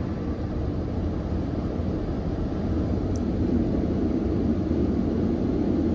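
Proto-Vest car wash dryers blowing air over the car, a steady low rush.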